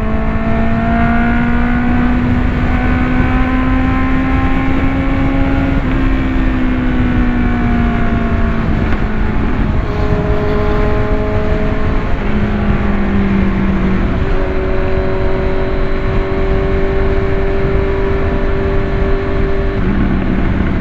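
Engine and exhaust noise at road speed, with wind rush on the microphone. The engine note climbs slowly, then falls and changes pitch in several sudden steps.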